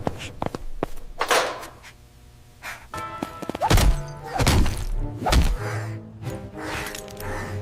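A series of heavy thuds and thunks from cartoon action sound effects, several seconds apart, with background music coming in partway through.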